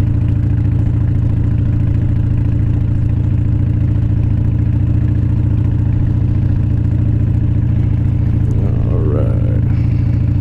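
2004 Harley-Davidson Dyna Wide Glide's Twin Cam 88 V-twin engine running at a steady, even pitch as the bike cruises along, heard from the rider's position.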